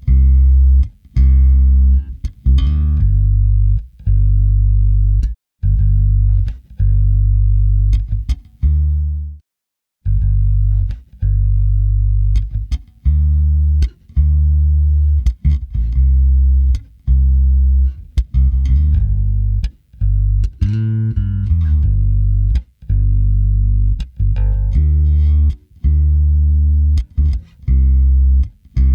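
Electric bass guitar playing a riff of plucked, sustained low notes with short gaps between phrases and a brief full stop about ten seconds in.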